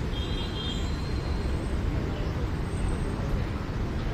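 Steady road-traffic rumble, with a brief high, thin tone in about the first second.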